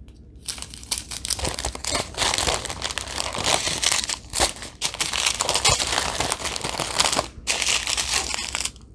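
Small plastic bags of diamond painting drills crinkling as they are handled, with a couple of brief pauses near the end.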